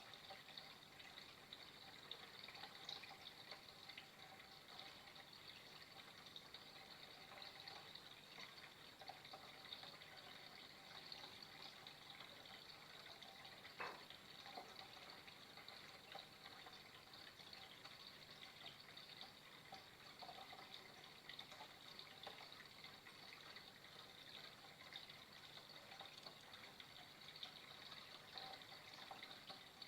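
Faint, steady flow of running water, trickling without a break, with one short click about halfway through.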